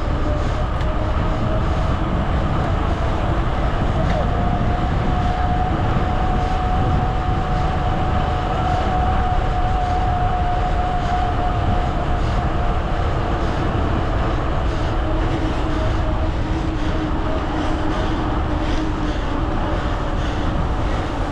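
Wind rushing over the microphone and tyre noise from a bicycle riding along a road. A steady whine sounds for several seconds in the middle, and a lower one near the end.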